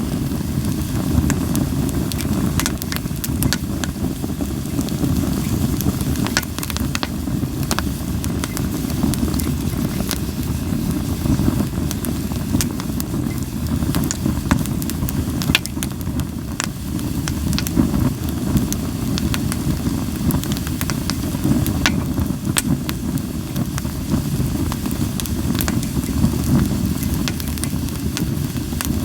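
Japanese linden firewood burning in a fire pan, with frequent sharp pops and crackles at irregular intervals over a steady low rumble.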